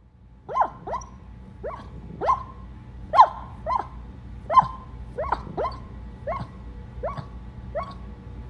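A dog barking repeatedly: about a dozen short, sharp barks at an uneven pace, the loudest around the middle.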